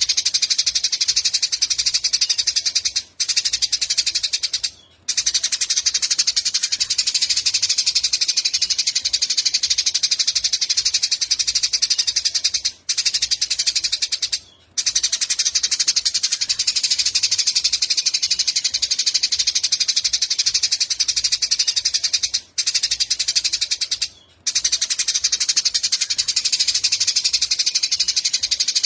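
Eurasian tree sparrows chattering in a dense, rapid stream of high chirps. Two brief breaks recur about every ten seconds.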